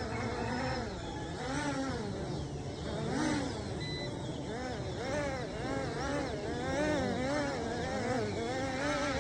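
Small toy quadcopter drone's electric motors and propellers whining, the pitch rising and falling in quick swoops about twice a second as the throttle changes during flight.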